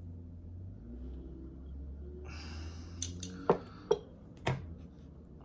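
Utensils scooping rice noodles out of a large plastic container: a short rustle, then four or five sharp clicks and knocks against the container over about a second and a half.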